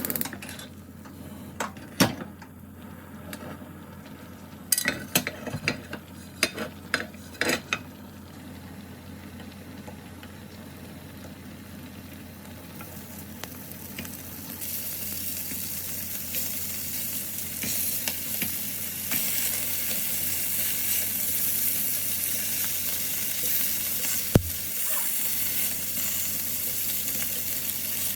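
Food sizzling in a frying pan, with a few clicks and knocks of a utensil against the pan at first. The sizzle grows louder from about halfway, and there is one sharp click near the end.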